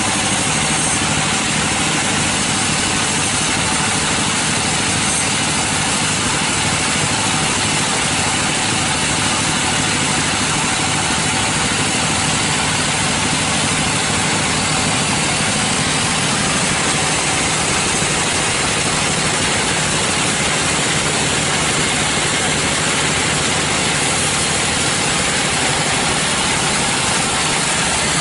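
Sawmill machinery running steadily, a loud constant drone that does not change.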